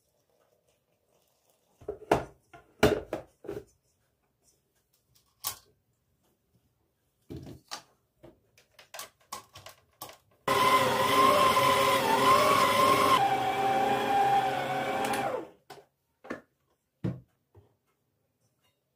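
Electric blender running for about five seconds, its motor whine dropping a little in pitch partway through, with scattered knocks and clicks of handling before and after.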